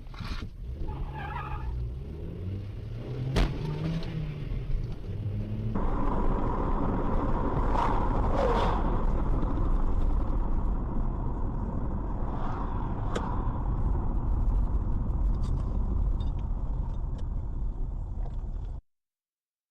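Car engine and road noise, steady and rumbling, broken by a few sharp bangs, the clearest about three seconds in and about thirteen seconds in; the sound changes character about six seconds in and cuts off abruptly near the end.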